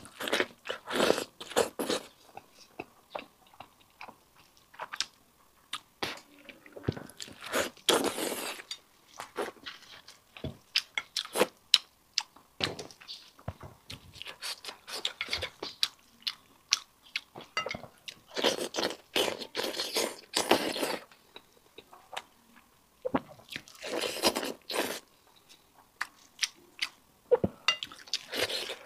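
Close-miked eating of a sheep's head: wet chewing, biting and crunching of the meat, with plastic-gloved hands pulling at the skull. There are many sharp clicks, and a few louder stretches of a second or two come at intervals.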